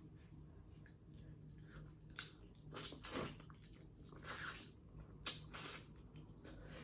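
Close-miked eating of a seafood boil: a string of short, quiet chewing and wet mouth sounds.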